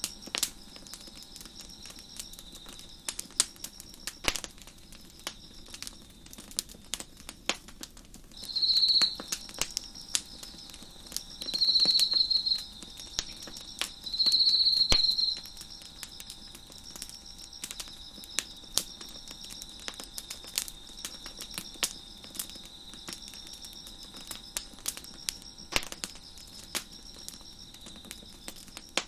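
Wood fire crackling with scattered sharp pops, over a steady chorus of chirping crickets. Three louder, closer bursts of high chirping come about 9, 12 and 15 seconds in.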